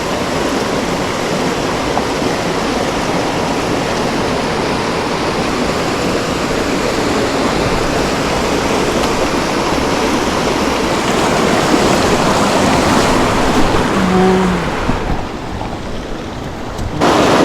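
Fast creek water rushing over rapids, a steady loud rush; near the end it turns duller and quieter for a couple of seconds before coming back.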